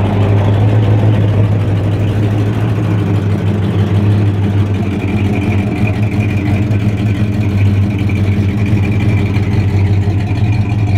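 1968 Buick Wildcat's V8 engine running steadily. A faint high whine joins about halfway through.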